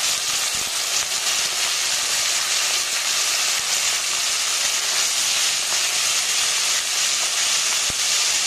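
Buttermilk-soaked green chillies frying in hot coconut oil in an iron kadai: a steady, loud sizzle with faint crackling as the buttermilk moisture cooks off in the oil.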